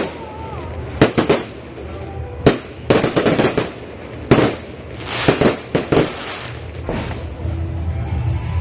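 Aerial fireworks going off: a series of sharp bangs, irregularly spaced about a second apart, some in quick clusters of two or three.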